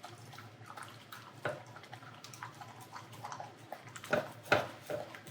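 A dog eating a helping of boiled chicken, with wet chewing, licking and small clicks and smacks that come thicker near the end. A steady low hum runs underneath.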